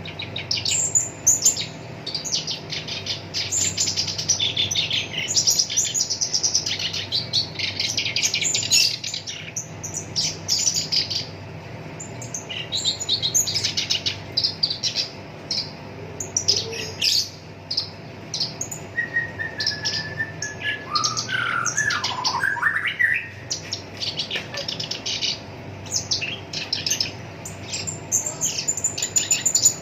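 Black-browed reed warbler singing a long run of fast, scratchy chattering phrases, with a lower sliding phrase about two-thirds of the way through.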